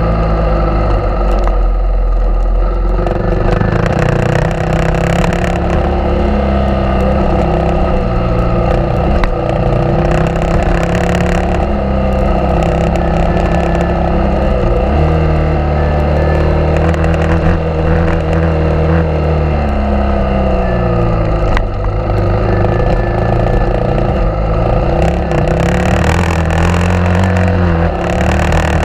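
Suzuki DR650's single-cylinder four-stroke engine running under way, its pitch rising and falling repeatedly as the rider accelerates, shifts gears and eases off.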